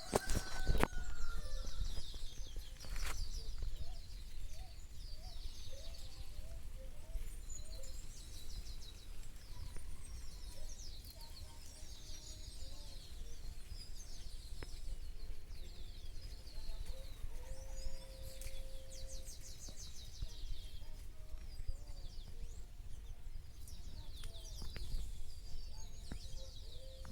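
Birds chirping and calling throughout in quick high chirps, with a few lower repeated calls and one longer held note. A steady low rumble runs underneath.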